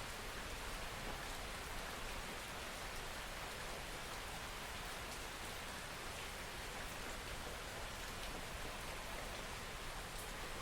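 Steady soft rain falling, an even hiss with a few faint drop ticks.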